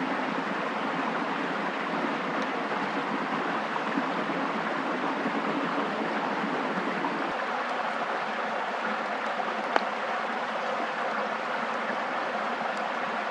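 Steady rushing water noise, with one sharp tick about ten seconds in.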